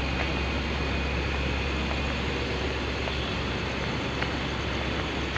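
Steady low drone of a standing passenger train's diesel engines running, with a thin steady high whine and a few faint clicks over it.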